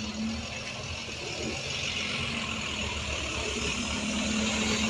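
Road vehicle engine running at the bus stop, a steady low rumble with a hiss that builds and grows louder over the last couple of seconds.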